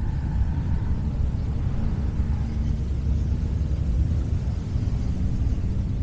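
Motorcycle engines rumbling steadily in a dense, low mix, with a faint higher engine note in the first second or so.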